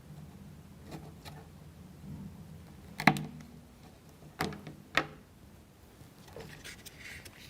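Small wooden model-kit parts and a toothpick being handled: three sharp clicks, about three, four and a half and five seconds in, with a few fainter taps before them, over a low steady hum.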